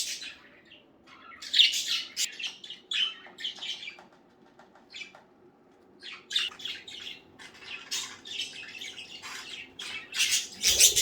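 Pet budgerigars chattering in quick, high-pitched bursts. A few calls come in the first few seconds, the birds go nearly quiet for a couple of seconds around the middle, and the chatter turns busy and continuous toward the end.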